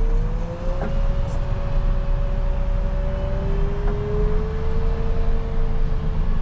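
Rubber-tire wheel loader's diesel engine running steadily with a deep rumble, heard from the cab, with a whine that slides slowly up and down in pitch.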